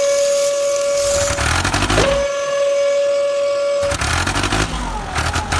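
Vehicle horn sounded in two long, steady blasts, the second starting about two seconds in, followed by a low rumble near the end.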